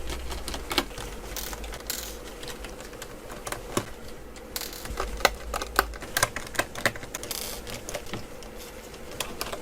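Irregular light clicks and taps of a screwdriver working the screws out of a laptop's plastic bottom case.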